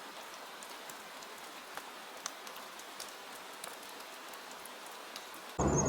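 Soft rain sound effect: a gentle, steady patter of rain with scattered drop ticks. About five and a half seconds in, it gives way abruptly to louder outdoor sound.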